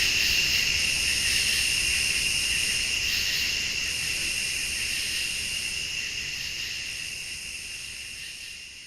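Night chorus of crickets and late-summer insects: steady, overlapping high trilling, one part pulsing on and off about every second, slowly fading out.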